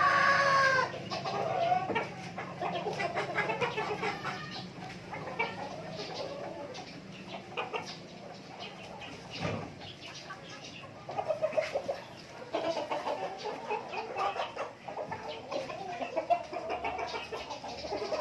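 Chickens clucking and calling, with a loud arching squawk in the first second, then many short clucks.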